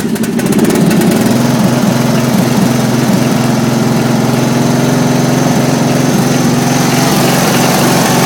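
Riding lawn tractor's 12.5 hp I/C Gold single-cylinder engine running steadily, freshly started. It builds up over about the first second, then holds an even speed.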